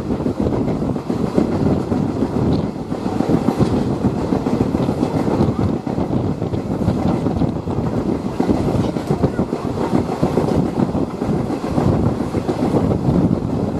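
Passenger train running along the track, heard from on board: a steady rumble of wheels on rail, with faint clicks over the rail joints.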